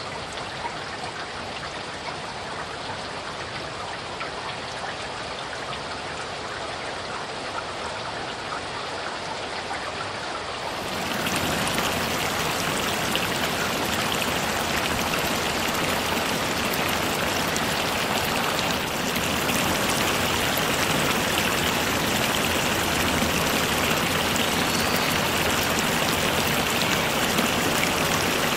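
Steady rain falling on garden shrubs, trees and a gravel drive, a continuous hiss that gets clearly louder about eleven seconds in.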